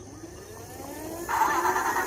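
Toy car making a rising whine, then a louder, steady buzzing sound that starts suddenly just past halfway.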